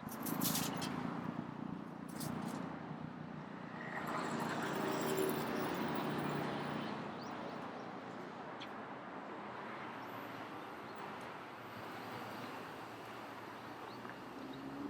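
City street ambience with a vehicle passing, its tyre-and-engine noise swelling in the middle and fading away, and a few sharp clicks near the start.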